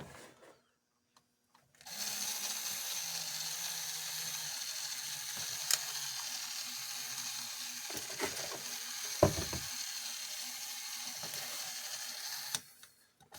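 Small electric motor and plastic gearbox of a plastic robot toy running with a steady whir and a few clacks, back in working order after cleaning. It starts about two seconds in and cuts off near the end, with a louder knock about two-thirds through.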